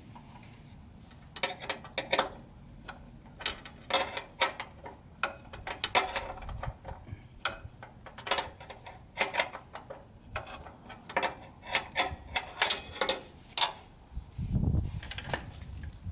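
Irregular sharp clicks and clacks of small metal parts and wire connectors being handled and pulled apart by hand, in quick clusters, then a low thud near the end.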